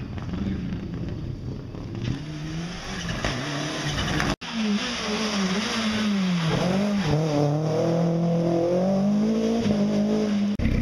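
Rally car engines on a closed stage. In the first part a car is heard running at a distance. After an abrupt cut a car's engine is revved hard through a hairpin, its pitch falling and rising repeatedly with the throttle and gear changes.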